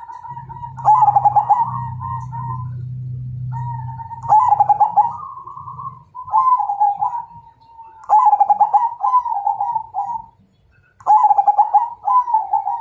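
Zebra dove (perkutut) cooing: five rolling, trilled coo phrases, one every two to three seconds. A low steady hum runs underneath during the first half.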